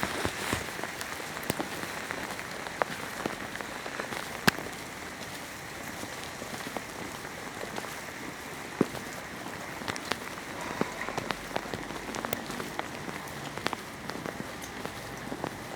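Rain falling steadily, with scattered sharp taps of drops landing close by.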